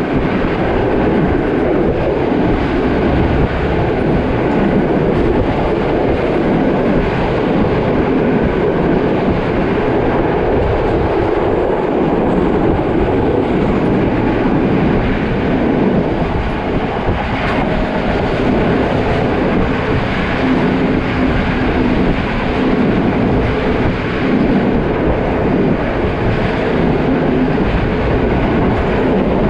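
Steady running noise of a passenger train at speed, heard from inside a carriage by the window: wheels rumbling and rattling along the track without a break.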